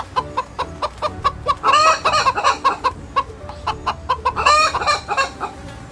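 Chickens clucking in a quick run of short clucks, with longer, louder calls about two seconds in and again near the five-second mark.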